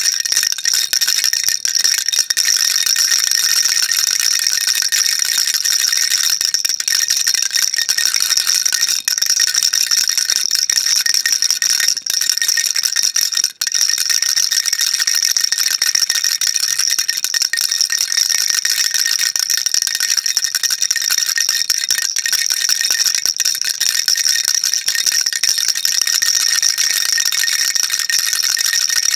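Baby rattle being shaken continuously: a dense, steady, high-pitched rattling, with one very brief break about 13 seconds in.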